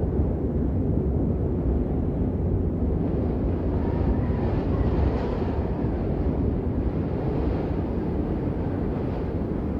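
Steady, muffled rain noise, deep and rumbling with little high hiss, used as white noise.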